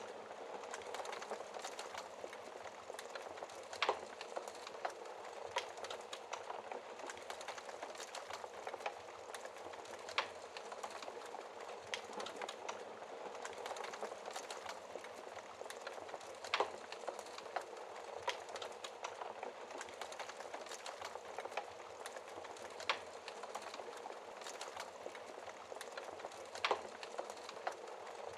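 Wood fire crackling in a fireplace: a steady hiss of burning with frequent small crackles and a sharper pop every few seconds.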